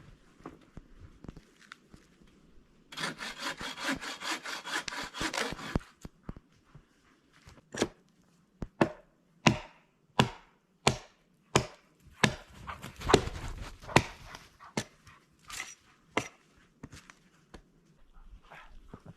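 Wood being cut with a hand saw in quick, even strokes for about three seconds. Then comes a run of single sharp knocks, a little under a second apart.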